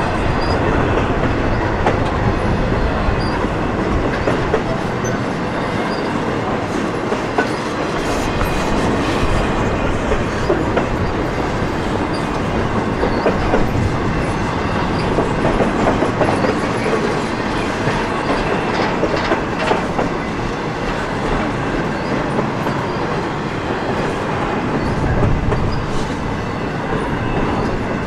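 Freight train rolling past close by, a steady rumble with the wheels clattering over the rail joints.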